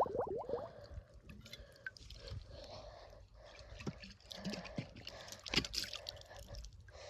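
Water gurgling and sloshing in a bottle as it is rinsed out, with quick rising glugs in the first second, then scattered drips and splashes.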